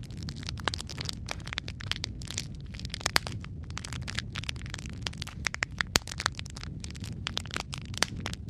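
Wood fire crackling: many sharp irregular pops and snaps, a few louder ones, over a steady low rumble of the flames.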